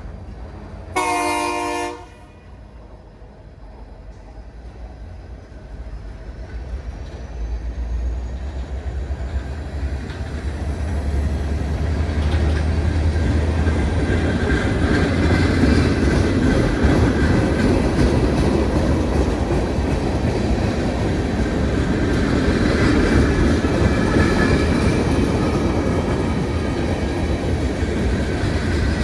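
A train horn gives one short blast about a second in, then a train approaches and passes, its rumble and wheel clatter on the rails building up and running loud and steady.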